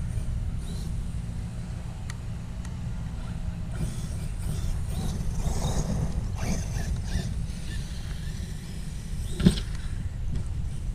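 Electric Traxxas RC car running, its motor whine and tyre noise strongest in the middle stretch, over a steady low rumble of wind on the microphone. One sharp knock near the end.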